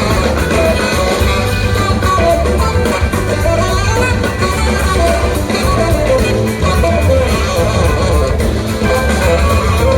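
Live band music with electric guitar, bass and a steady beat, and a voice singing.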